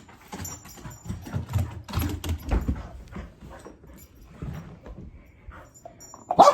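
Dogs scampering and scuffling during a game of fetch: irregular thuds and scrabbling of paws on the floor, with one loud sharp sound near the end.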